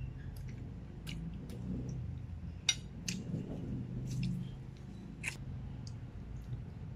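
Close-miked eating of creamy fettuccine carbonara: chewing with wet mouth clicks and smacks every second or so, and a fork against the plate near the end.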